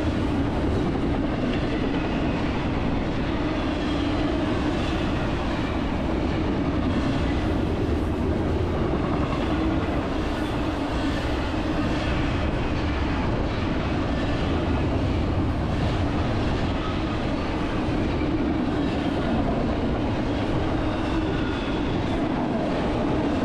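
BNSF freight train rolling past at an even, sustained level.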